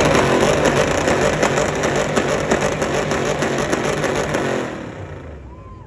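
A truck's engine revved hard and held at high revs, dying away near the end.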